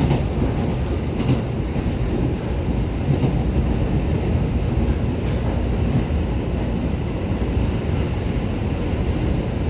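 Train running on the rails, heard from inside a passenger car: a steady low rumble of wheels and track, with a couple of short clicks in the first second or so.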